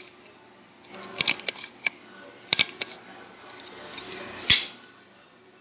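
Sharp clicks and clinks of small hard objects being handled, about half a dozen spread over a few seconds, the loudest and longest about four and a half seconds in.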